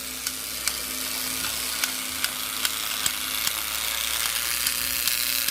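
Battery-powered Trackmaster toy train engine's motor and gears whirring, with a regular click about two or three times a second. The motor is noisy, which the owner takes for a fault in it.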